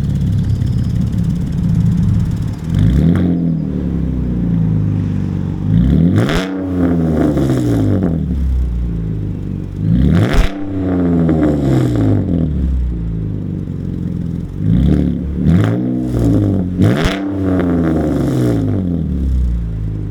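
A car engine with an aftermarket exhaust, idling, then free-revved in neutral about five times. Each blip rises sharply in pitch and falls back to idle.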